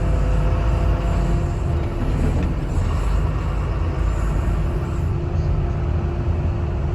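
Heavy scrapyard machinery running: a steady low engine rumble with a faint, even whine on top.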